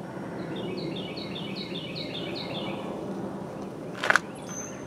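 A songbird singing a quick run of about five falling chirps in the first half, over steady outdoor background noise. A single sharp click about four seconds in.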